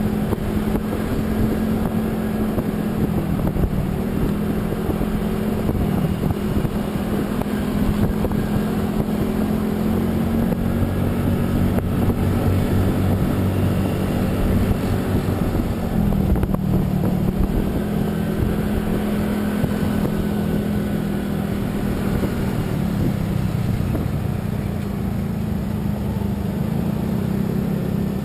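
Motor vehicle engine running steadily under way, with road and wind noise. The engine note shifts in pitch a few times.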